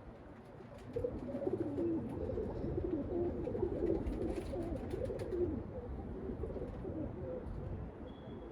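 Domestic pigeons cooing, several low warbling coos overlapping, starting about a second in, over a low rumble of wind on the microphone.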